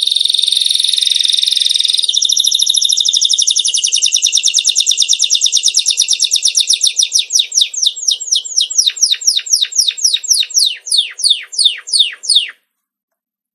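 Songbird song: a long trill of quick, high, repeated notes. The notes gradually slow and turn into separate downward-sweeping whistles, then the song stops abruptly near the end.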